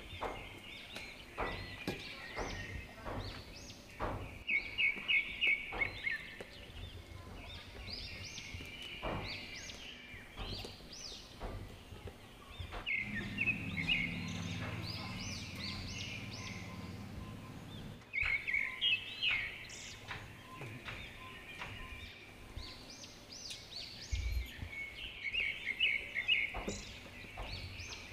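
Birds calling in short bursts of quick, high chirps that recur every few seconds, over scattered light clicks. A low rumble runs for about five seconds in the middle.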